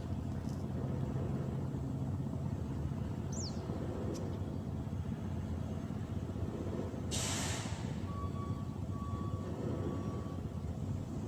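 An engine drones steadily at a low, even pitch. A short hiss cuts in about seven seconds in.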